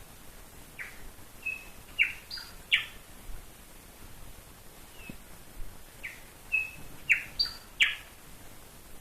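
Wild bird of unknown species singing the same short phrase twice, about five seconds apart: each phrase is a quick run of sharp, clear notes with a short steady whistle in the middle.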